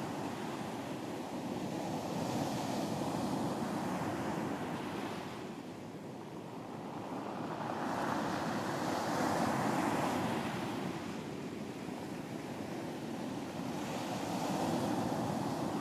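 Sea waves breaking and washing onto a beach, the surf swelling and easing in slow surges about every six seconds.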